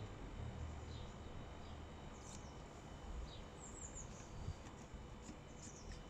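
Faint outdoor background with a low steady rumble and short high chirps of small birds now and then.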